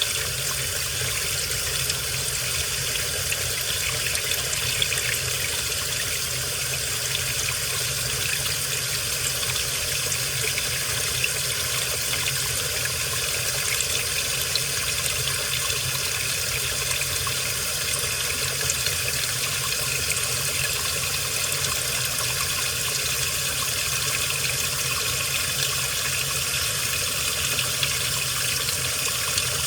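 Washing machine running with a steady rush of water inside the drum, even and unbroken.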